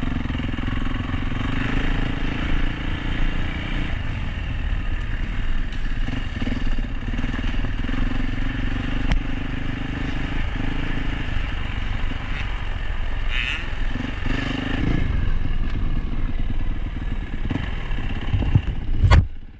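Motocross dirt bike engine running, its pitch holding fairly steady, with a brief sudden drop in level near the end.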